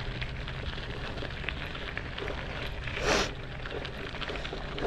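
Crackling and rubbing handling noise on a GoPro Hero 12 as it is turned over to find its recording light, with a brief loud whoosh about three seconds in.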